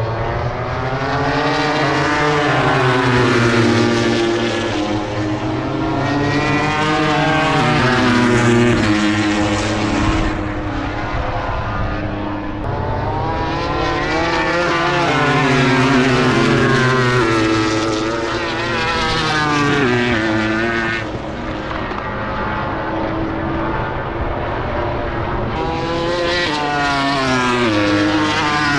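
MotoGP race bike's four-cylinder engine at racing revs: its pitch climbs hard through the gears, drops away and climbs again several times.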